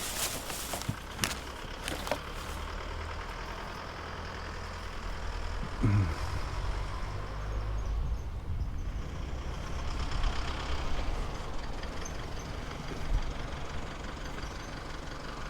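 A motor vehicle's engine running with a steady low rumble, with a few sharp clicks or knocks in the first couple of seconds.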